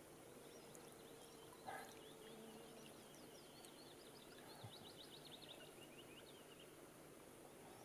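Near silence with a small bird singing faintly: a run of quick high chirps with a fast trill about five seconds in. A soft knock comes about two seconds in.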